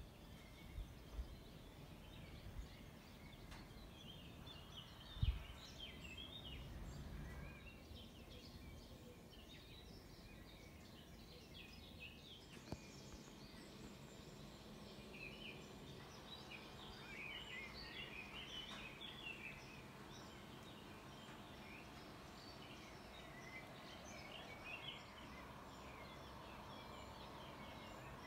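Faint outdoor ambience with small birds chirping on and off throughout. A few low bumps come in the first seconds, the loudest about five seconds in.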